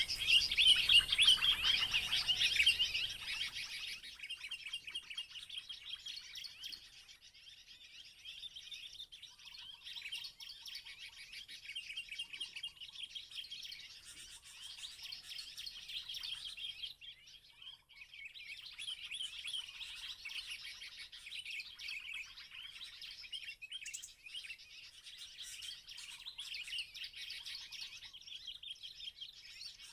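Bar-winged prinia (ciblek) calls, a rapid, unbroken high chirping used as a lure sound for trapping ciblek, loudest in the first few seconds. A fainter, lower chirp comes in now and then.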